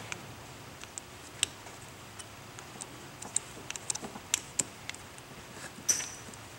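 Hose clamps being tightened down on a garden hose repair fitting: small, irregular metallic clicks and ticks. The loudest click comes near the end, with a brief high squeak.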